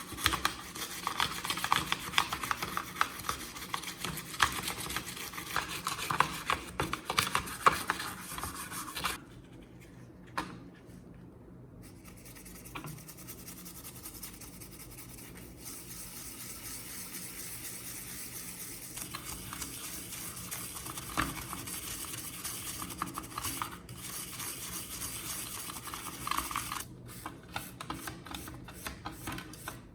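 Hand tools scraping and rubbing, with dense rasping strokes for the first nine seconds, then a quieter stretch of softer rubbing. Short rapid clicking near the end.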